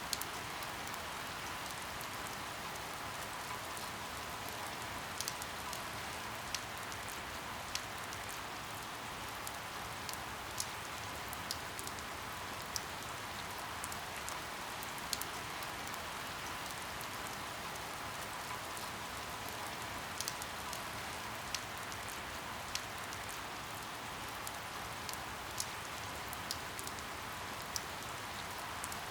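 Steady rain falling, with scattered sharp taps of single drops.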